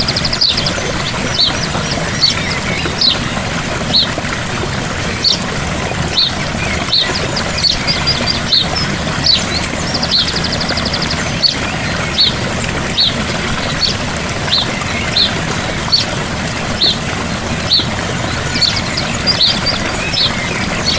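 Gentle waterfall pouring steadily, with birds chirping over it, short high chirps about once a second and a brief rapid trill at the start and again about halfway through.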